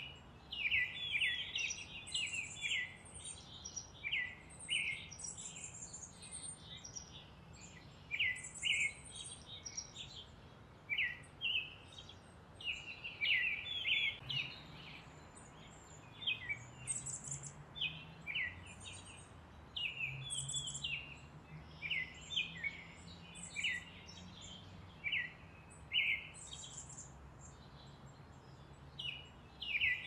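Songbirds chirping and calling, short high notes in quick clusters every second or two, over a faint low steady hum.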